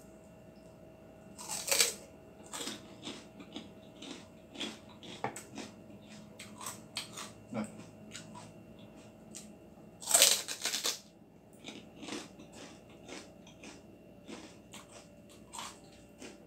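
Close-up crunching of crispy pork chicharon (fried pork rinds) being bitten and chewed: two loud crunching bites, about two seconds in and about ten seconds in, with many smaller crackling chews in between.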